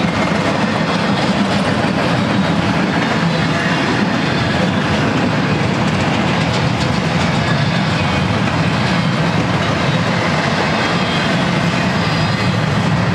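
Empty double-stack well cars of a freight train rolling past, a steady continuous noise of steel wheels running on the rails with faint ticks mixed in.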